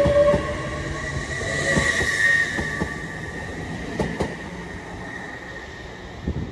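Class 802 train moving out along the station, its wheels squealing in thin steady tones with a few sharp clicks over rail joints. It fades away over the last few seconds.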